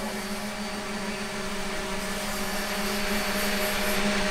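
A motor running at a steady pitch, with a hiss that grows louder about halfway through.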